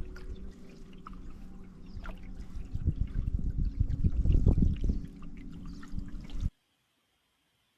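Water splashing and trickling from canoe paddle strokes over a steady low hum. The sound cuts off abruptly about six and a half seconds in.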